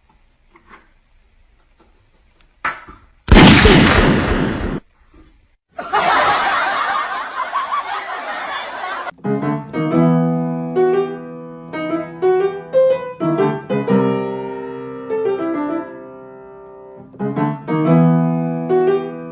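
Two loud noisy bursts, one short and one about three seconds long, then solo piano music playing a melody of separate notes for the rest of the stretch.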